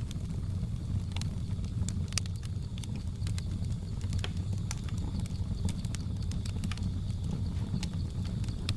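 Wood fire crackling, with sharp irregular pops and snaps over a low steady rumble of the flames. A faint steady high drone, typical of jungle insects, runs underneath.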